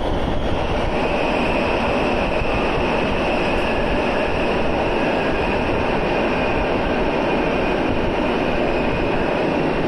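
Passenger train running: a steady rumble and hiss, with a faint steady high whine that sets in about a second in.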